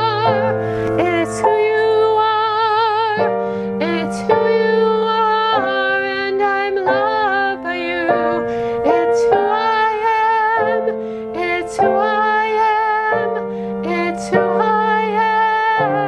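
A hymn sung by a singer with vibrato over keyboard accompaniment, with sustained chords changing every second or two.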